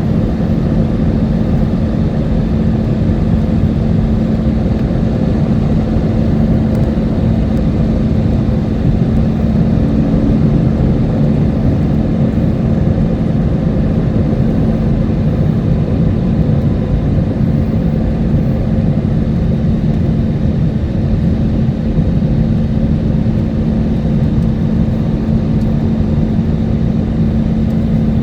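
Cabin noise of an Airbus A320neo airliner on approach: a steady rush of engine and airflow noise with a constant low hum running under it.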